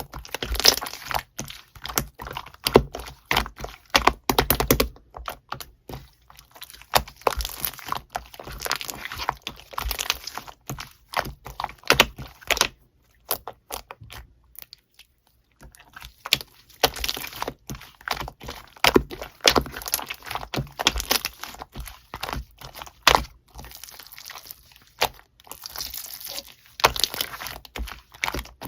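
Slime being squished, folded and pressed by hand, giving irregular bursts of sticky crackling clicks and pops. The handling stops for about three seconds midway, then resumes.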